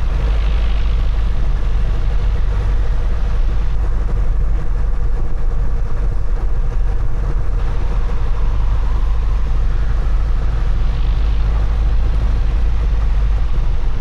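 Carbureted four-cylinder engine of a Piper Cherokee 140 running at low taxi power, heard from inside the cabin as a steady, even drone.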